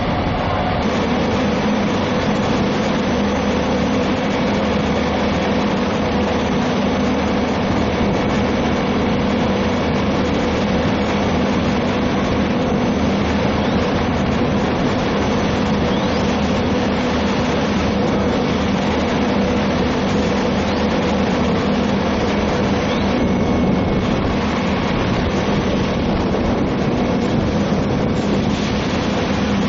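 A heavy engine idling steadily, a constant low hum with a steady drone and no change in pitch.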